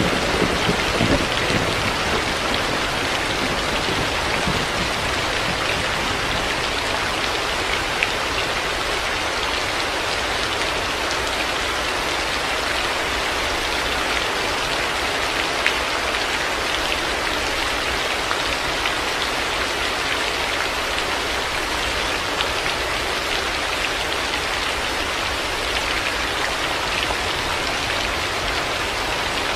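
Steady heavy rain falling on surfaces. A low rumble of thunder fades out in the first couple of seconds, and a few single louder drops stand out.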